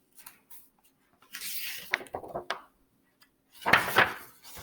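A page of a paperback picture book being turned and handled: a paper rustle, a few light clicks, then a louder crackle of paper near the end.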